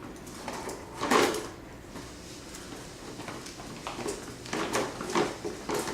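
Toy fire truck being pushed across the floor: a scraping rush about a second in, then a series of short knocks and clatters.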